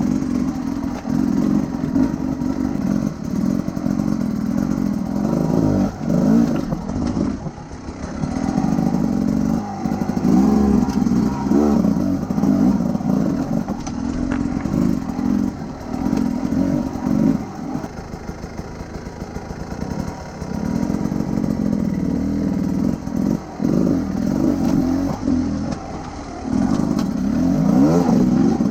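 Enduro motorcycle engine being ridden, the revs rising and falling again and again as the throttle is opened and closed.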